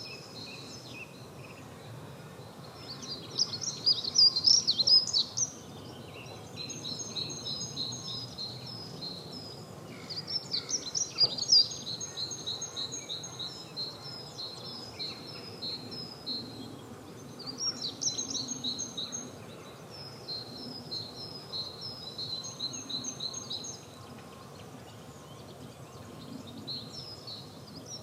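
Spring birdsong chorus: several songbirds singing, with repeated high chirping phrases throughout and louder bursts of song a few seconds in, near the middle and again later, over faint background noise.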